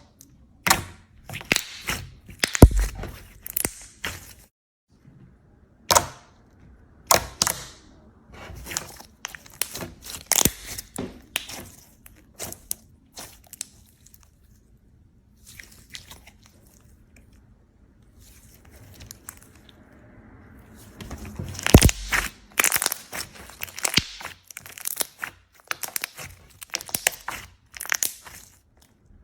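Slime being squeezed and pressed by hand, giving sharp crunchy crackles and pops. A quieter pause comes in the middle, then the crackling grows denser in the last third.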